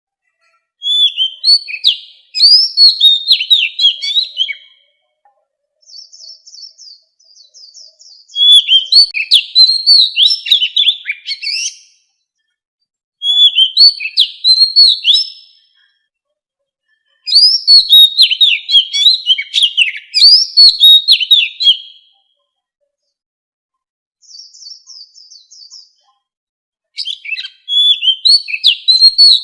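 Wild Oriental magpie-robin singing: loud phrases of rapid, sweeping whistled notes, each lasting a few seconds, with short silent pauses between them. Two softer, higher twittering phrases come in the gaps, one about six seconds in and one near 24 seconds.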